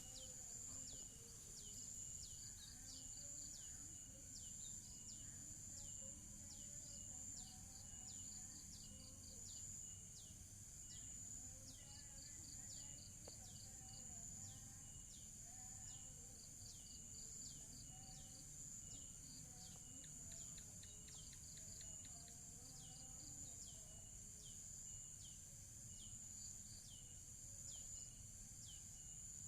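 Faint outdoor background: a steady high-pitched insect drone, with a bird giving short, falling chirps over and over, about one or two a second.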